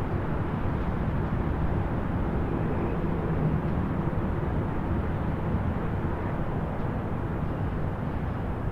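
Distant highway traffic: a steady, low rumble of many vehicles blending into one constant noise.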